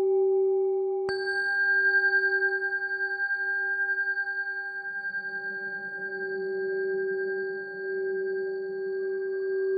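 Tibetan singing bowls in the note G ringing: a steady low hum with overtones. About a second in, a bowl is struck, adding higher ringing tones, and the sound then wavers in a fast pulsing beat as it rings on.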